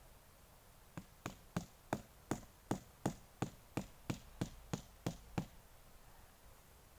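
About fourteen sharp knocks in a steady rhythm, roughly three a second, starting about a second in and stopping a little past halfway.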